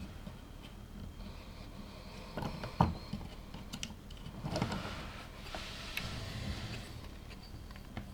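Plastic LEGO pieces being handled and snapped together: scattered sharp clicks, the loudest a little before three seconds in, then rattling and rustling of pieces for about two seconds in the middle.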